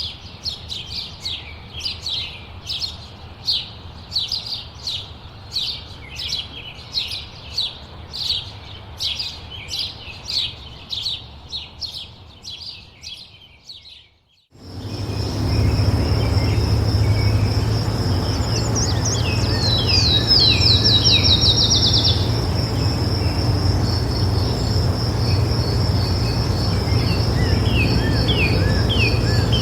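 A bird repeating short, sharp downward-sweeping chirps about twice a second, fading out about halfway through. Then a different recording: a steady, high-pitched, pulsing insect trill over a low rumble, with a bird's rapid trill of quick falling notes a few seconds later and a few scattered chirps near the end.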